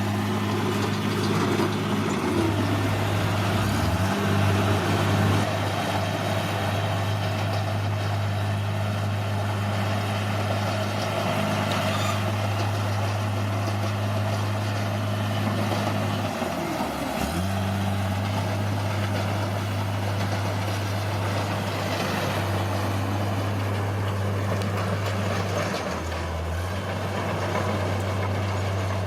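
Bulldozer's diesel engine running steadily, its pitch dipping briefly a few times, about three seconds in, near the middle and again near the end, with a constant noisy clatter over it.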